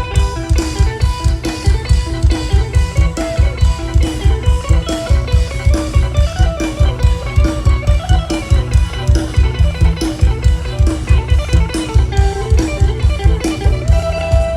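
Isan-style band music: an electric plucked-string lead playing a melody over a fast, steady bass-drum beat.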